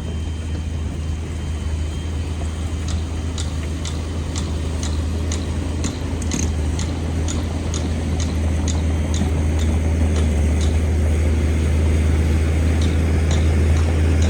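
Shantui DH17C2 bulldozer's diesel engine running with a steady low drone that grows slowly louder, while its tracks click lightly about twice a second.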